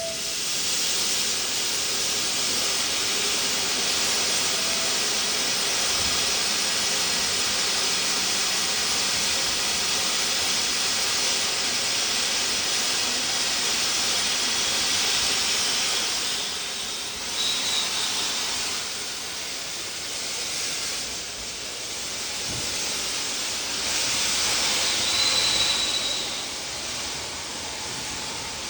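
Steam locomotives departing, hissing steam steadily, loudest for the first half and then easing and fluctuating, with two brief high squeals in the second half.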